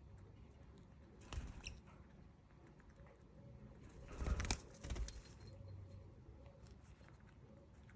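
Pet lovebirds moving about: two short bursts of rustling flutter, about a second in and again, louder, about four seconds in.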